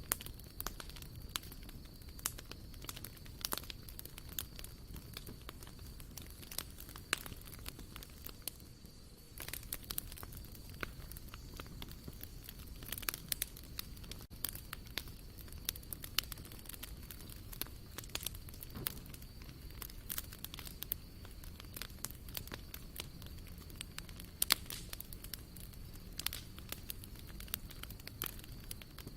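Wood campfire burning, with irregular sharp crackles and pops over a low steady rumble of the flames. One pop stands out as louder than the rest about three quarters of the way through.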